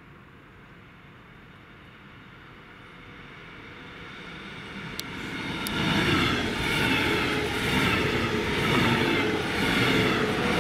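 A German double-deck regional express train, pushed by a class 111 electric locomotive, approaching and running through a station without stopping. The wheel and rail noise grows from faint to loud about halfway through, with two sharp clicks just before it reaches full loudness.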